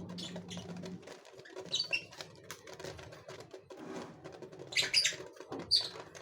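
Small cage birds chirping three times in short high calls, among light scratching, patter and fluttering in the cage.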